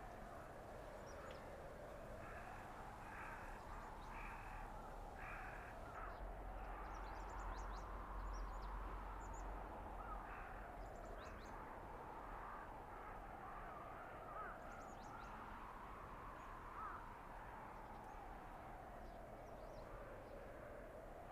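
Blizzard wind howling through a winter forest, its pitch slowly rising and falling in long gusts over a low rumble. A crow caws several times a few seconds in, and small birds give faint high chirps.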